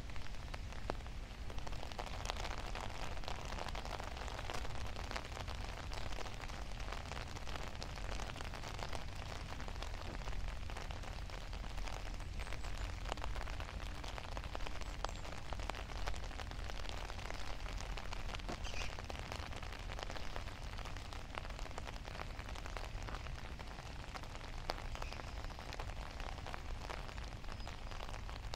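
Steady rain falling, a constant patter with many sharp drop ticks close by, over a low steady rumble.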